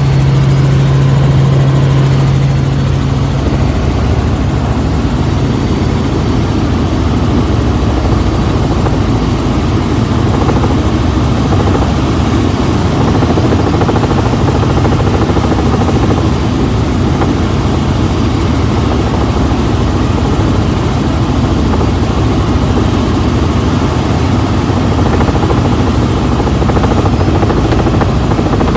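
Helicopter in flight, heard from inside the cabin: a loud, steady drone of rotor and engine, with a strong low hum that fades out a few seconds in.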